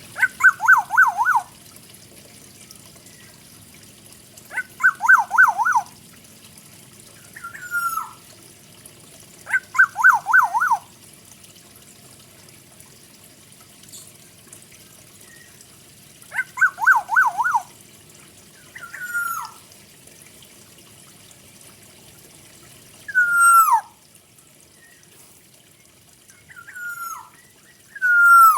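Kepodang hutan (oriole) singing in separate whistled phrases several seconds apart. Some phrases are about a second of four or five quick up-and-down notes; others are single downward-slurred whistles.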